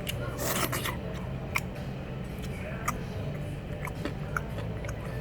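Eating noises: scattered light clicks and a short rustle about half a second in, over a steady low hum.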